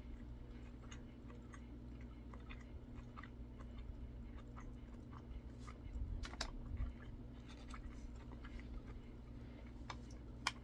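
Close-up chewing of a fried chicken sandwich, with small crunches from the breading and a louder run of crackles about six seconds in, over a steady low hum.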